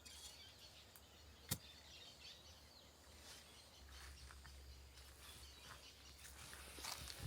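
Quiet forest ambience with faint, scattered bird chirps and one sharp click about a second and a half in.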